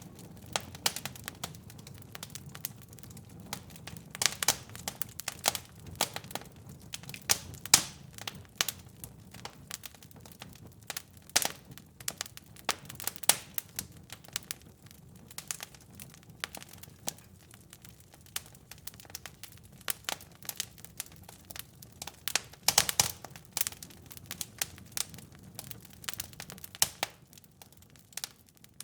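Wood fire crackling in a fireplace: irregular sharp snaps and pops, several a second, over a low steady rumble, with a few louder pops about eight seconds in and again a little past twenty seconds.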